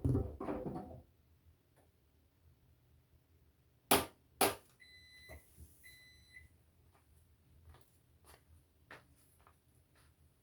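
Two sharp clicks, then two steady electronic beeps from a washing machine's control panel, each just under a second long, typical of the machine signalling the end of its cycle. Faint small clicks follow.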